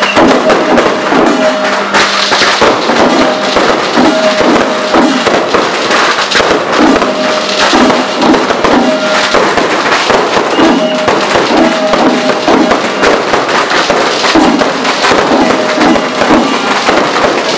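Dense, continuous bangs and crackle of aerial fireworks launching and bursting, with a short pitched tune repeating over and over beneath them.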